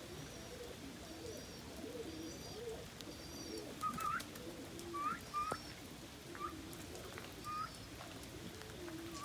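Homing pigeons cooing steadily in the loft, with a few short, higher, rising calls breaking in from about four seconds on.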